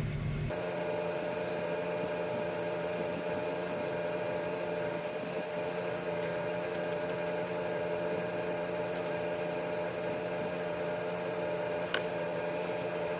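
A small motor running with a steady whirring hum over an even hiss, with a single sharp click about twelve seconds in.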